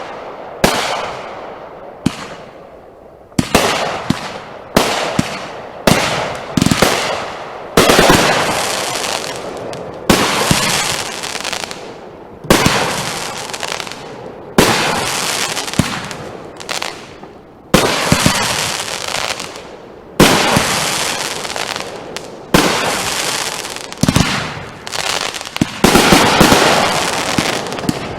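Consumer aerial fireworks going off in quick succession: a sharp bang every one to two seconds, each followed by a fading tail.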